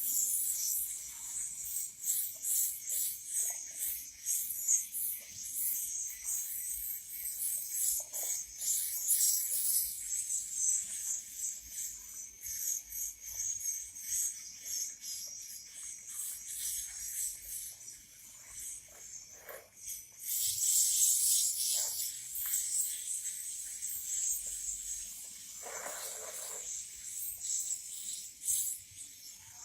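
Swiftlets giving a high-pitched, rapid chittering and hissing, typical of young birds begging while being hand-fed.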